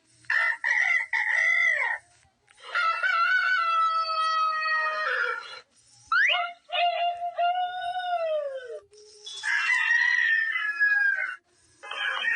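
Rooster crowing: four drawn-out cock-a-doodle-doos in a row, each about two to three seconds long with short silent gaps between them. The third crow falls in pitch at its end, and another crow begins just at the close.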